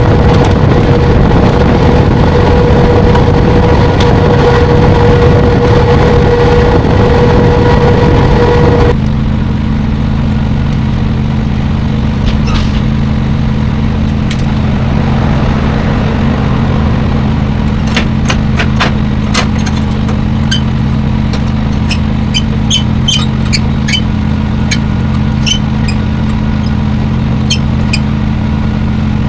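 Semi-truck diesel engine running: loud and rough with a steady whine at first, then after an abrupt change about nine seconds in, a steady low hum. Short high squeaks and ticks come and go over the last ten seconds.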